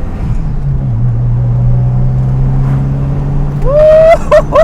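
Second-generation Mitsubishi Eclipse engine running, heard from inside the car; its pitch drops a little about a second in, then holds steady. Near the end a man whoops loudly over it.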